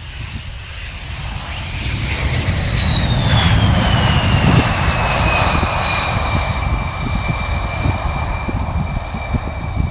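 Jet aircraft flying past. The engine noise swells to its loudest about four seconds in while a high whine glides down in pitch, then levels off as the aircraft moves away.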